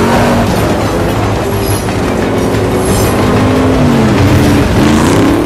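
Film sound mix of a moving train: rail wheels rolling with a clickety-clack, loud and steady, with a low tone that slides down and back up in pitch about four to five seconds in.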